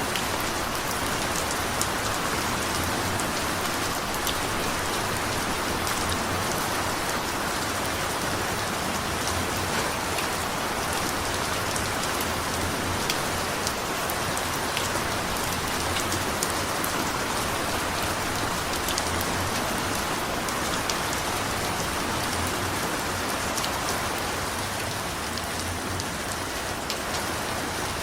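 Steady rain falling, with dense close drops ticking on a surface over a constant hiss.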